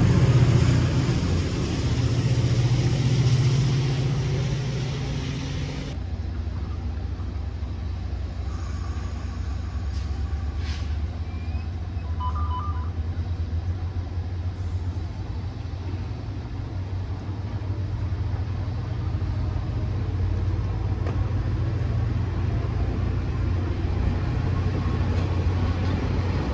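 Caltrain diesel locomotive and train rumbling away, fading over the first few seconds into a steady, low distant rumble.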